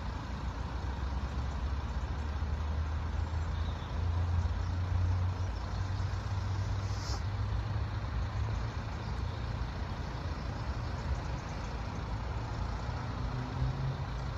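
Road vehicle engines idling with a steady low rumble while traffic waits at lowered level-crossing barriers.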